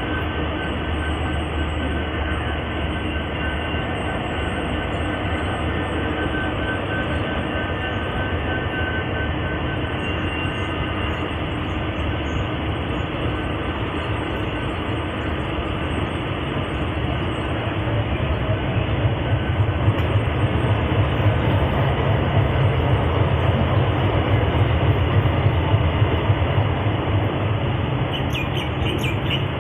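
Suburban local train running on the track: a steady rumble and rattle that grows louder and heavier about two-thirds of the way through.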